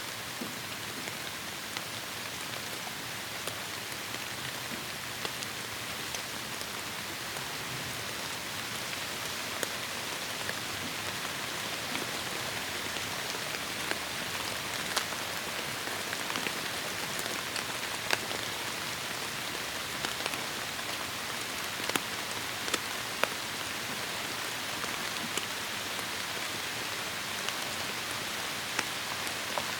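Heavy rain falling in a tropical forest: a steady dense hiss of rainfall, with individual louder drops ticking sharply here and there.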